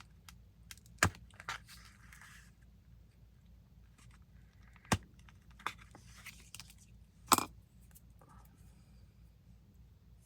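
Craft materials being handled on a work table: three sharp clicks about one, five and seven and a half seconds in, the last the loudest, with a few lighter ticks and short stretches of rustling and scraping between them.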